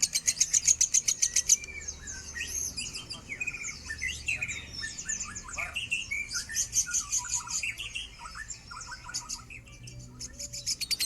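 Lovebird singing. It opens with a fast, even trill of high chirps, breaks into varied squeaky chirps and slurred notes, and near the end goes back into the rapid trill.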